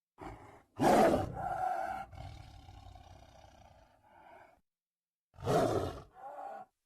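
Tiger growling in separate calls: a short growl, then a loud growl about a second in that trails off over a few seconds, and after a pause two more short growls near the end.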